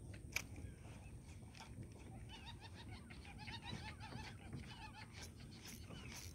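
Faint chattering of birds, many short chirps throughout, with scattered light clicks and one sharper click about half a second in.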